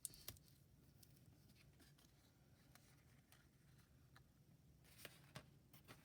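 Near silence: room tone with a low hum and a few faint clicks and rustles from handling paper and tape, once just after the start and a few more around five seconds in.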